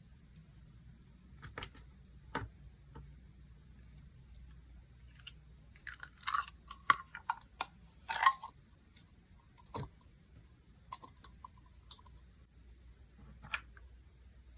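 Slime being squeezed and stretched by hand, giving scattered sticky clicks, pops and squishes, with a denser run of crackling squishes about six to eight seconds in.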